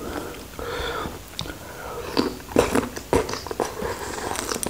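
Close-miked biting and chewing of raw shrimp with chili sauce. A quick run of short, wet mouth clicks fills the second half.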